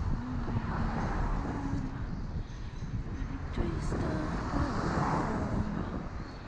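Street traffic noise with a steady rumble of wind on the microphone, recorded from a moving bicycle.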